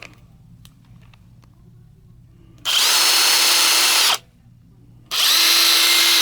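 Kobalt 24-volt brushless 3/8-inch impact wrench spinning freely with no load, in two trigger pulls: a steady motor whine for about a second and a half, a short pause, then a second steady run.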